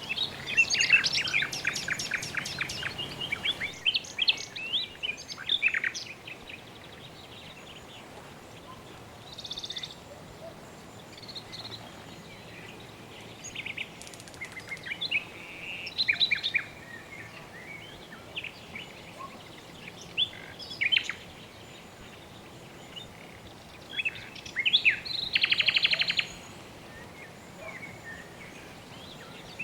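Birds chirping and trilling in repeated bursts of quick high notes, busiest in the first few seconds and again a few seconds before the end, over a steady faint hiss.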